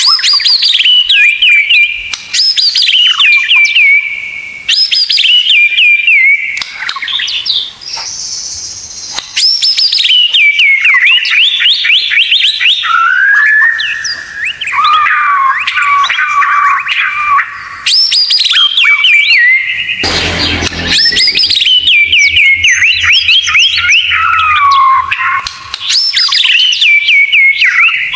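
White-rumped shama (murai batu) song: continuous runs of rapid, sharp, falling whistled notes and trills (the 'tembakan' phrases) with short pauses between phrases, as played to train captive shamas.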